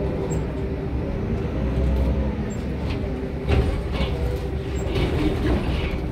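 A boat's engine running with a steady low rumble and an even hum.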